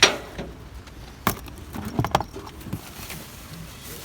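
Objects knocking and clattering as trash is rummaged through: a loud, sharp clunk with a brief ring at the start, another knock about a second later, and a few quick clinks around two seconds in.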